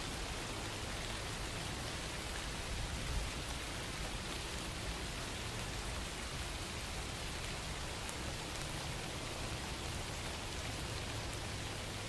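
Steady rain falling, an even rushing hiss with no thunder or distinct drops standing out.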